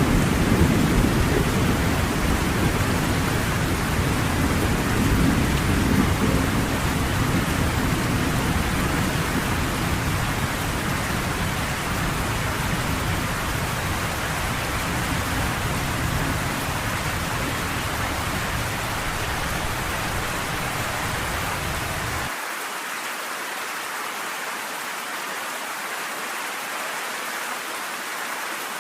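Steady heavy rain with a long, low rumble of thunder that slowly dies away. About 22 seconds in, the rumble cuts off suddenly and only the rain's hiss goes on.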